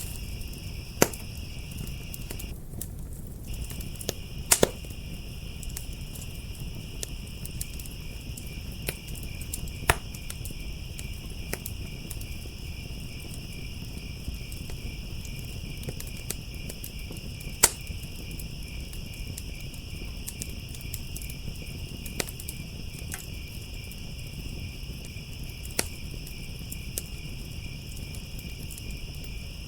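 Crickets trilling in a steady, high chorus over a wood fire that crackles with sharp single pops every few seconds. The crickets drop out for a moment about three seconds in.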